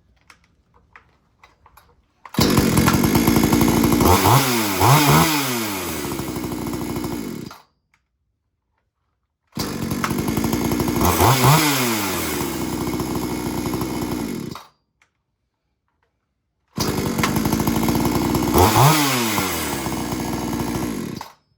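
A 59cc two-stroke Stark 6200 XP chainsaw run at high throttle in three bursts of about five seconds, each ending abruptly. In each burst the engine speed dips once and climbs back.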